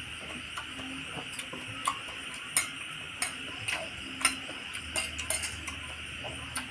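Close-up eating sounds: irregular short sharp clicks and smacks, about a dozen, the loudest around the middle, over a steady high hiss.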